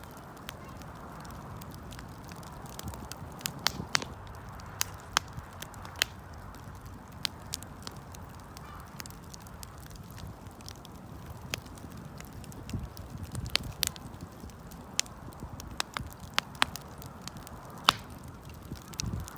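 Wood fire crackling: sharp, irregular pops and snaps, several each second at times, over a steady low rush of burning.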